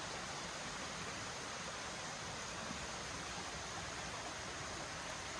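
Steady rushing of a stream flowing nearby.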